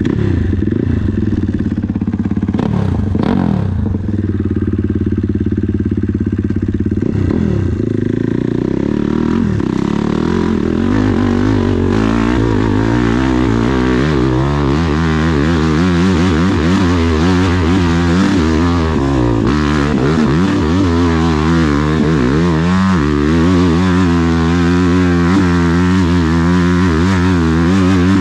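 Dirt bike engine running steadily at low revs for about ten seconds, then revving up and down again and again under throttle as the bike climbs the hill.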